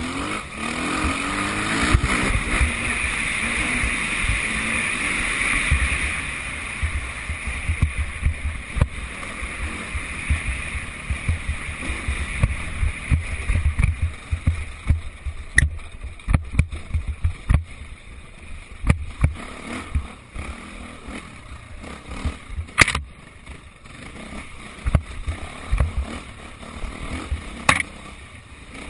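Motocross bikes' engines revving loudly over the first few seconds, then fading into the distance. Low thumps and rumble on the microphone run throughout, with a few sharp clicks in the second half.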